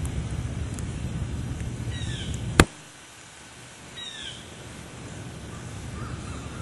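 Low wind rumble on the microphone, cut off by a single sharp click; then a bird gives two short, falling calls about two seconds apart, with faint chirps near the end.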